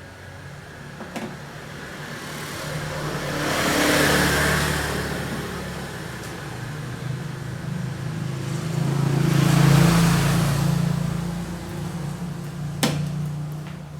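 Two road vehicles passing by one after the other, each swelling up and fading away, over a steady low hum. A sharp click sounds near the end.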